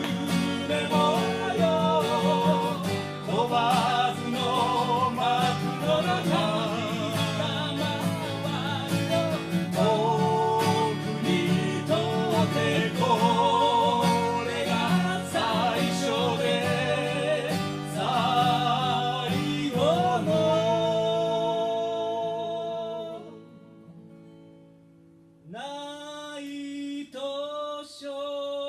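Live folk song with singing over acoustic guitar; about twenty seconds in a long held sung note ends the phrase and the music fades nearly to silence, then a voice starts a new phrase unaccompanied a few seconds before the end.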